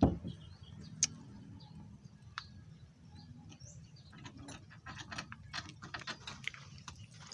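Hand tools working on a machine under repair: a sharp knock at the start, a couple of single clicks, then a run of quick mechanical clicks in the second half.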